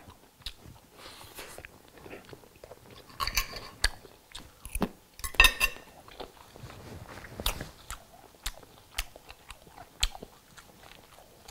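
A person chewing a mouthful of grilled pork chop close to the microphone, with small wet mouth clicks and smacks scattered throughout and a couple of louder chewing bursts a few seconds in.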